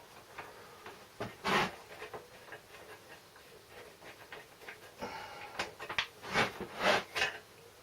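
Hand tools and metal parts clinking and knocking on a Briggs & Stratton mower engine as its recoil starter is being unbolted, a few short knocks and scrapes about a second and a half in and a busier run of them near the end.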